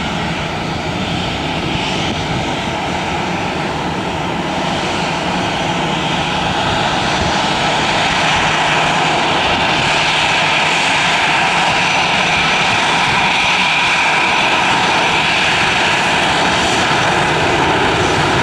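Airbus A320 jet engines running at taxi power: a steady rush with a held whine, growing louder over the first eight seconds or so and then holding steady.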